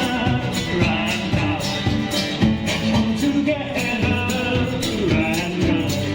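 Live band music with singing and guitar, a percussive beat running steadily through it.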